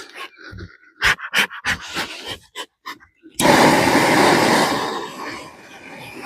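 Beekeeper's smoker bellows being pumped in quick short puffs to get a smoker that won't stay lit going. About three and a half seconds in, a loud rush of air starts suddenly, holds for a second or two and then fades.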